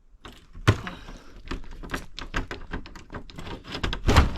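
A jammed wooden door being yanked and shoved, rattling and knocking irregularly, with a sharp knock under a second in and heavier thuds near the end.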